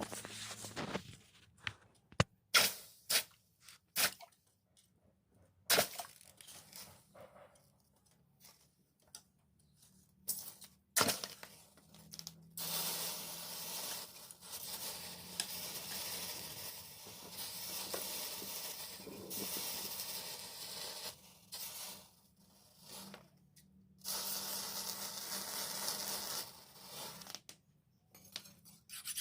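Metalwork on a steel blade: a few sharp knocks or clanks in the first dozen seconds, then long stretches of steady hissing, scraping noise.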